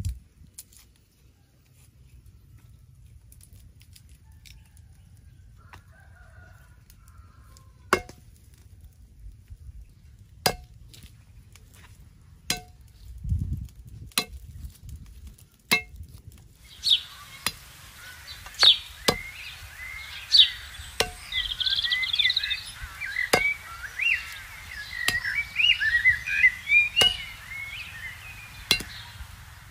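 A cleaver chopping garlic on a wooden stump block: single sharp chops every second or two, coming more often in the second half. Through the second half, chickens cluck and cheep in the background.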